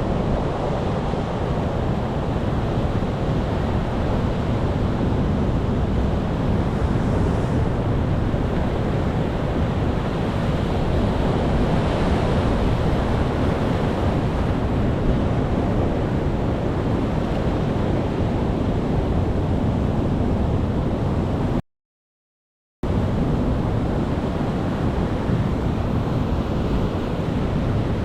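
Ocean surf: a steady, dense rush of waves with no distinct swells. It cuts out completely for about a second roughly two-thirds of the way through, then resumes unchanged.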